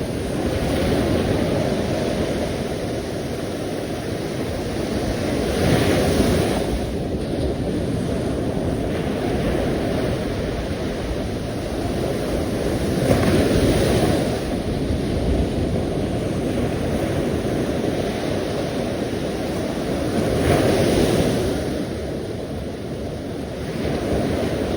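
Sea waves rushing onto the shore in a steady wash, swelling as a wave breaks about every seven seconds, three times.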